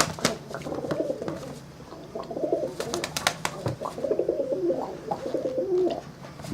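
Rock dove (pigeon) cooing in several low, wavering phrases, with a few sharp clicks about three seconds in.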